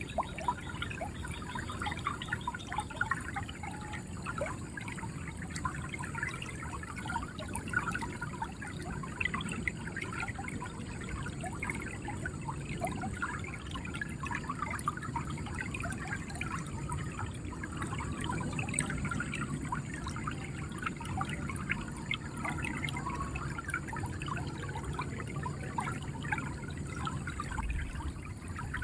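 River water flowing steadily, a constant rush with many small gurgles and splashes.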